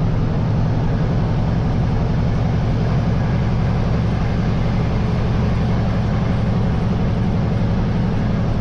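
Cummins L10 diesel truck engine running steadily, a constant low drone.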